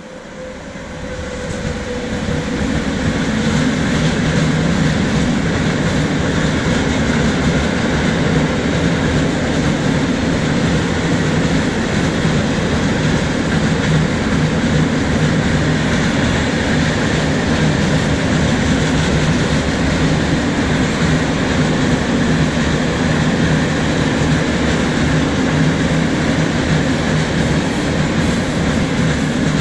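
Freight train of tank wagons passing close by: the noise grows over the first few seconds as the locomotive arrives, then holds as a loud, steady running noise of wagon wheels on the rails.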